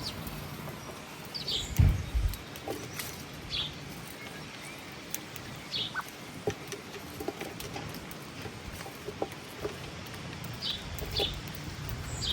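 Birds chirping, a handful of short, separate high calls spread over several seconds, with a few soft knocks and a steady background hiss.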